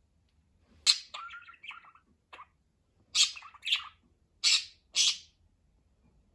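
Pet budgerigar chirping and chattering. About a second in comes a sharp call and a short warbling run, then a brief chirp, then four loud harsh squawks in the second half.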